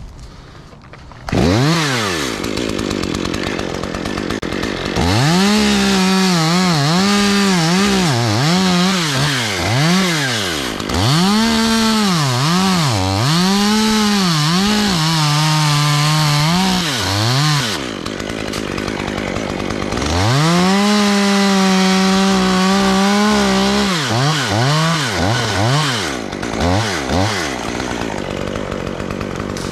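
Chainsaw engine coming in about a second in, then revved up and down repeatedly and held at full throttle for a few seconds at a time, as when cutting a tree limb.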